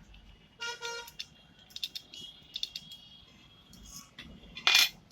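Metal clinks and scraping as a bearing puller and a just-removed ceiling-fan ball bearing are handled: a brief ringing squeak about a second in, scattered light clicks, and a louder scrape near the end.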